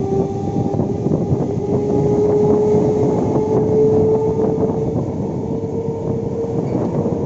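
Electric multiple unit local train running, with a steady rumble of wheels on track and faint clicks. Over it a motor whine rises slowly in pitch and then holds, as the train picks up speed.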